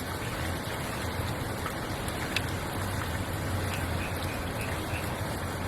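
Steady, even background noise with a low hum, and one or two faint clicks, typical of mahjong tiles being set down during play.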